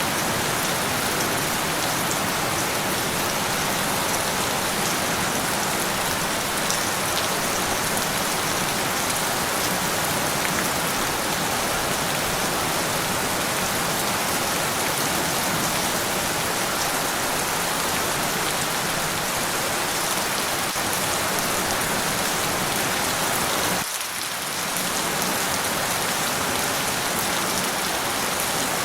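Steady, heavy rain falling and pattering on surfaces, an even hiss, with one brief dip in level late on.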